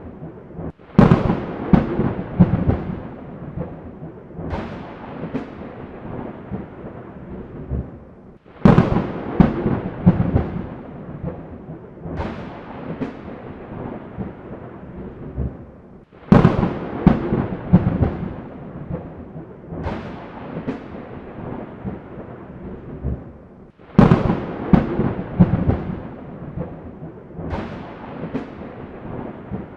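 Thunderstorm: a sharp thunderclap followed by rolling, fading rumbles, over a steady hiss of rain. The same crack-and-roll pattern comes four times, about eight seconds apart.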